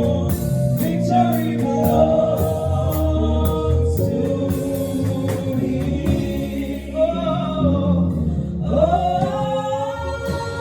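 Gospel worship song: singing voices holding and sliding between notes over sustained instrumental chords, with light percussion ticks in the first two seconds.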